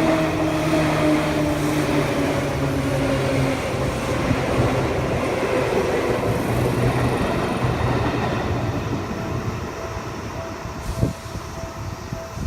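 Seibu Shinjuku Line electric train passing a level crossing: a loud rumble of wheels on rail with the motors' tones gliding slightly down in pitch, fading over the second half. Near the end the crossing warning bell comes through, ringing about twice a second, with one sharp click.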